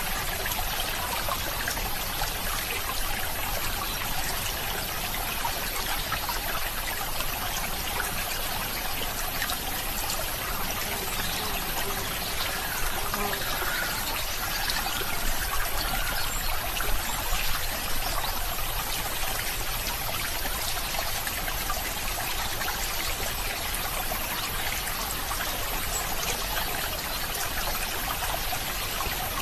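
Water trickling and flowing steadily, as in a small stream, a little livelier for a few seconds past the middle.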